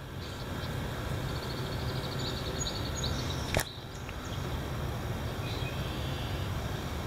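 Heavy wind blowing across the microphone with a low rumble, building up over the first second. Faint bird chirps come through early on, and a single sharp click about three and a half seconds in.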